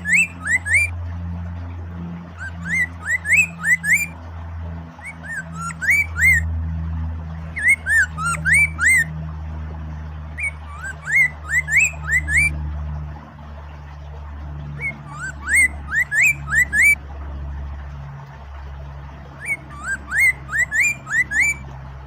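A poksay mandarin (Chinese hwamei) singing in short bouts of quick, rising whistled notes, repeated every two to three seconds, over a steady rush of flowing water.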